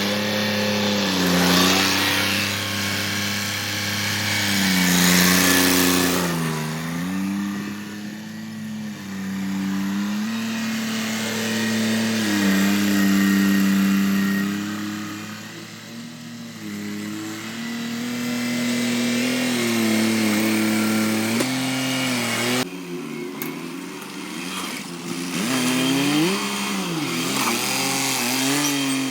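An engine running, its pitch holding steady for stretches and then dropping and rising again as its speed changes.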